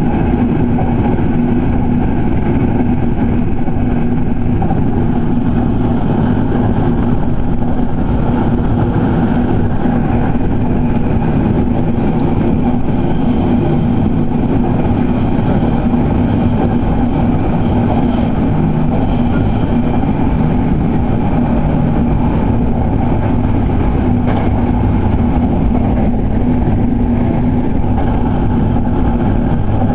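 Running noise inside a Sanyo Electric Railway 5000 series electric train travelling at speed: a steady rumble of wheels on the rails and traction motors, with a steady low hum.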